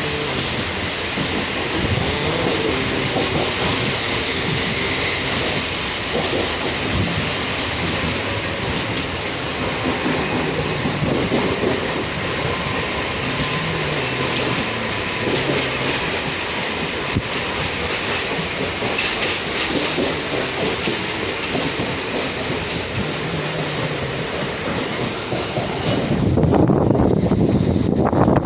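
Mumbai suburban local electric train running on the rails, with a steady clatter of wheels and faint wheel squeal. Near the end the sound turns heavier and lower.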